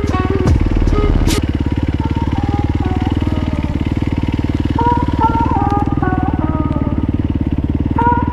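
Off-road trail motorcycle engine running at a steady pace, a rapid even firing pulse.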